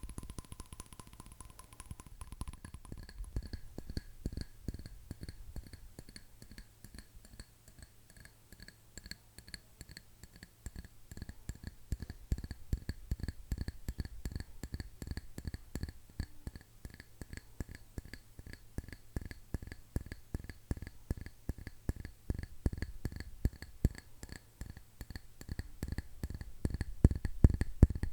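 Fast fingernail tapping on hard objects, many quick clicks with no pause. The ringing tone of the taps changes about two seconds in, and the taps grow louder near the end.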